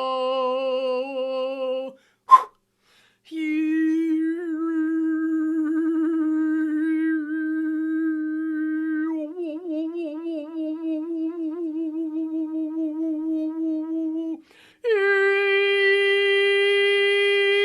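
A solo voice toning long, sustained wordless notes, each held for several seconds with rich overtones, and stepping up in pitch from note to note. There is a short break with a sharp click about two seconds in. The longest note wavers slightly in its second half.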